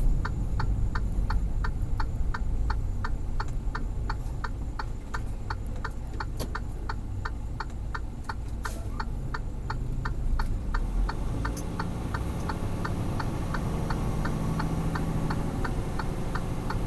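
Truck cab's indicator flasher clicking steadily, about two to three ticks a second, over the low rumble of the truck's idling engine.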